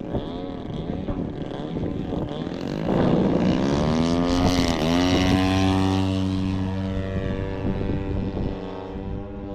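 Electric-powered Extreme Flight Extra 260 RC aerobatic plane flying, its motor and propeller giving a steady whine. It gets louder about three seconds in and the pitch swings up and down as the plane passes close, then settles.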